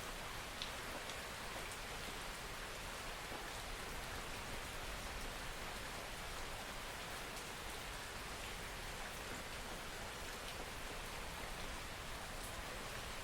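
Steady soft rain falling, an even hiss with a few faint drop ticks scattered through it.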